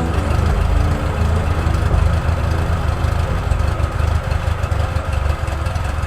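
UAZ off-roader's carburetted petrol engine idling with a steady low rumble.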